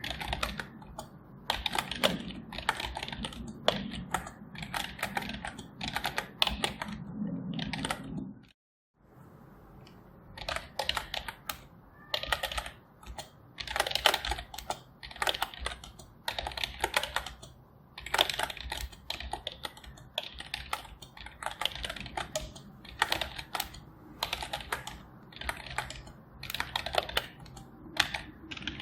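Typing on a computer keyboard: a continuous run of rapid keystroke clicks, broken by a brief gap about nine seconds in.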